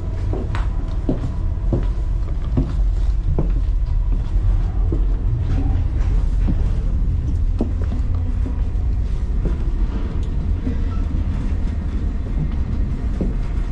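Denali Star passenger train running, heard from aboard: a steady low rumble with irregular knocks and rattles from the cars.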